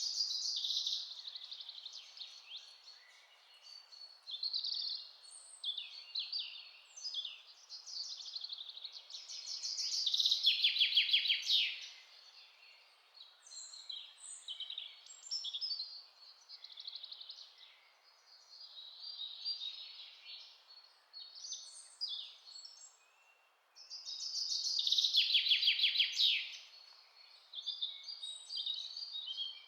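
Several songbirds singing and chirping over one another in forest ambience. A rapid trilling song of quickly repeated notes rises above the rest twice, about ten seconds in and again about twenty-five seconds in. A faint steady hiss lies underneath.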